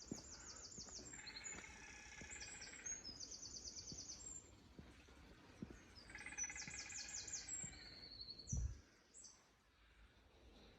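Small songbirds singing: rapid high trills repeated in two bouts, a few seconds apart, over faint footsteps. A low thump near the end.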